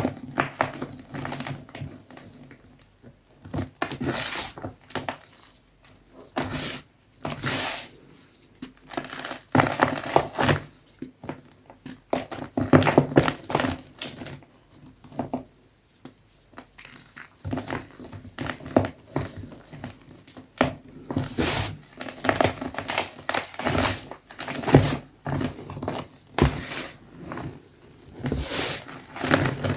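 Soft blocks of green gym chalk crushed and crumbled by hand, a series of irregular dry crunches with short pauses between them.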